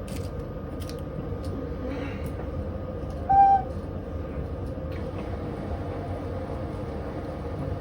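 Washing machine drum spinning with a stone as its load: a steady rumble and motor hum with a few sharp knocks from the stone. A short high-pitched hoot sounds once, about three and a half seconds in, louder than the rest.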